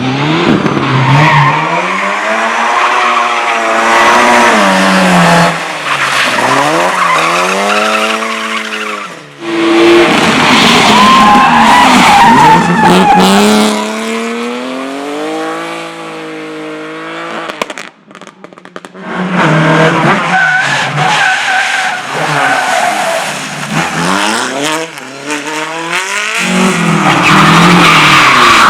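Race car engine revving hard, its pitch climbing and falling again and again as the throttle is worked, with tyres squealing and skidding. The engine sound drops away briefly a little past the middle.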